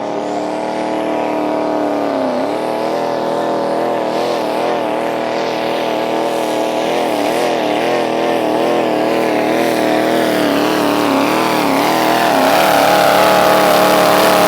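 Diesel engine of a pulling vehicle running at full throttle under load down the track, its pitch wavering up and down. It grows louder toward the end.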